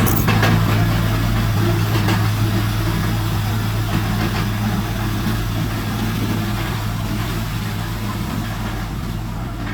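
Heavy diesel engine of an earthmoving machine running at a steady speed, with a strong low hum and a few knocks in the first couple of seconds.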